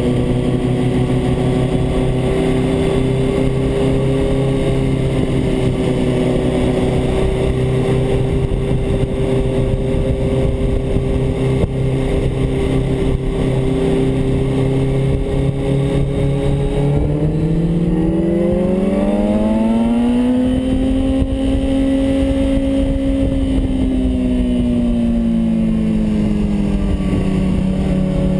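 Sport motorcycle's engine running steadily in second gear. About two-thirds of the way through, the revs rise, hold higher for a few seconds and then ease back down, with wind rush over the bike-mounted microphone.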